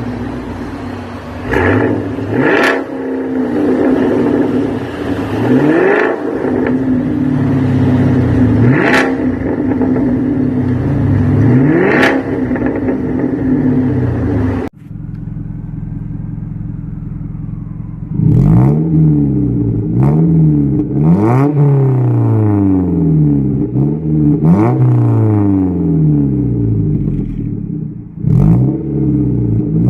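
A car engine revved repeatedly through a loud exhaust, with sharp cracks about every three seconds in the first half. After a sudden cut it settles to a steady lower note, then gives a quick run of blips about every second and a half.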